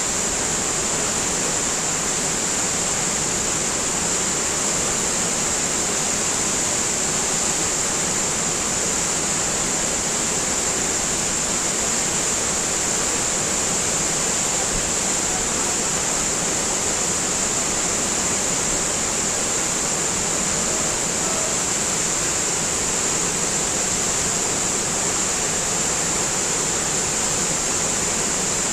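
Steady rushing of a river in flood, an unbroken wash of water noise.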